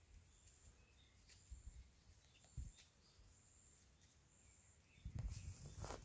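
Near silence in woodland, with faint high bird chirps repeating throughout. About five seconds in, a louder stretch of rustling and low thumps begins.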